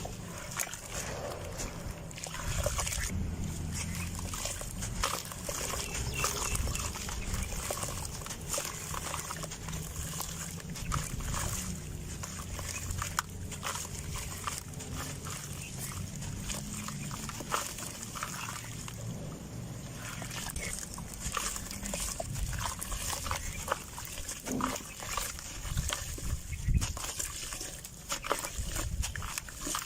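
Dry red dirt being crumbled and crushed: dense, irregular crunching and crackling that goes on without a break.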